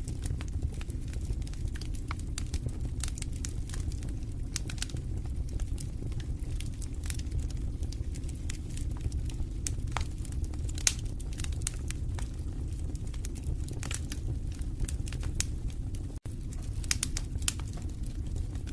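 Wood fire in a fireplace crackling: a steady low rumble of burning with frequent sharp pops and snaps scattered throughout, one louder pop about eleven seconds in. The sound drops out for an instant about sixteen seconds in.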